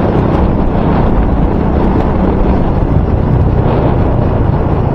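Loud, steady wind noise buffeting the microphone, mostly a low rumble, still coming through even though the microphone is wrapped in electrical tape.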